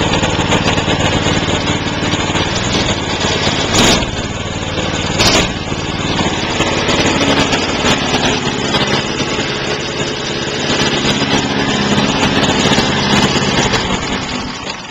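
6.5 hp Honda-clone single-cylinder four-stroke go-kart engine running steadily just after a cold start on choke, with two brief sharp knocks about 4 and 5 seconds in. The engine sound falls away near the end.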